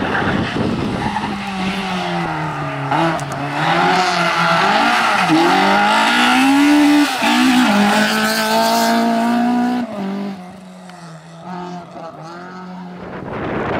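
Rally car engine revving hard at full throttle, its pitch climbing and dropping again and again through gear changes and lifts. It turns much quieter about ten seconds in.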